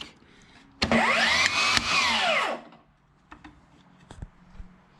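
Milwaukee M18 Fuel cordless table saw switched on about a second in: the motor spins the blade up with a whine, then is switched off and winds down about two seconds later, followed by a few faint clicks. It starts and runs, a test run showing the repaired saw works.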